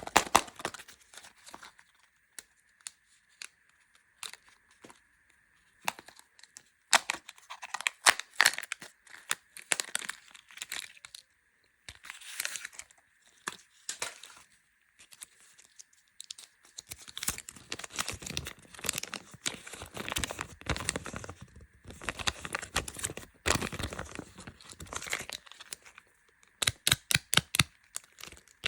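Plastic and foil candy wrappers being torn open and crinkled, in irregular bursts of sharp crackling and rustling. A run of quick sharp crackles comes near the end.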